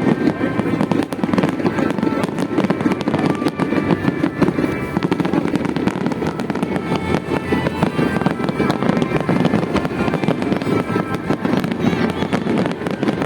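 Fireworks display: a dense, continuous barrage of bursts and crackling, with music playing over it.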